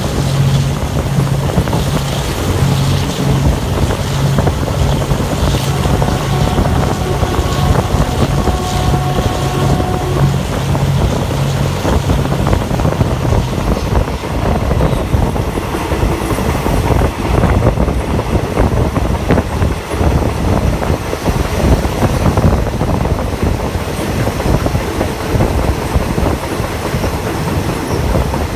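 Passenger train running along the track, heard from on board: a steady rumble of wheels on the rails with wind noise. A low pulsing hum sounds through the first dozen seconds and then fades out.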